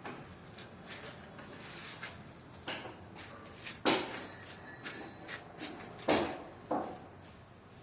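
A handful of irregular sharp knocks and clatters, the loudest about four seconds in and twice more near the end.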